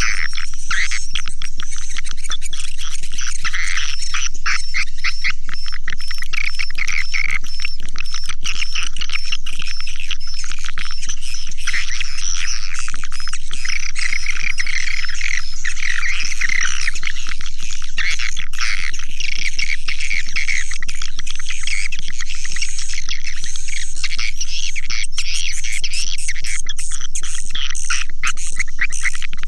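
Swiftlet calls played as a swiftlet-house call (lure) recording: a dense, unbroken chatter of overlapping chirps, twitters and rapid clicks at a steady level.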